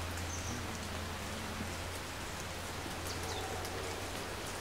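Steady hiss of outdoor background noise with a low steady hum underneath; no shot is heard.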